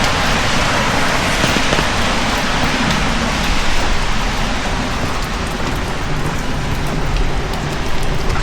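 Heavy rain falling in a steady, dense hiss, with a low rumble underneath.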